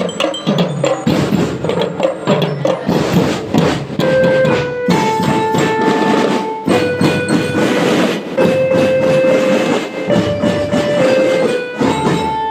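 Marching band playing: a dense, rapid beat of marching drums under a melody of held notes, with bell-like mallet percussion strikes.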